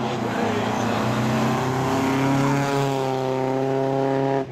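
A 1950s Triumph TR roadster's four-cylinder engine pulling hard under acceleration, its revs rising and then holding steady. The sound breaks off abruptly near the end.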